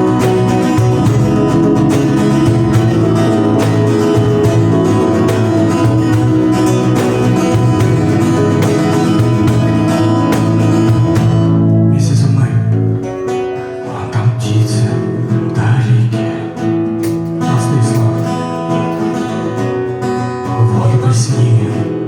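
Live acoustic guitar music, strummed and picked without sung words. The playing is full and steady for roughly the first twelve seconds, then thins to lighter, separate plucked notes.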